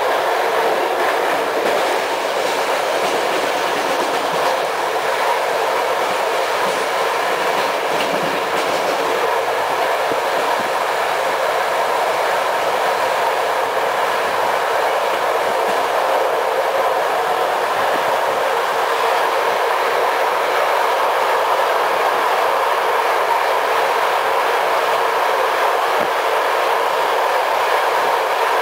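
Running noise of a passenger train at speed, heard from on board: a steady rush of wheels rolling on the rails, with a few faint clicks from the track.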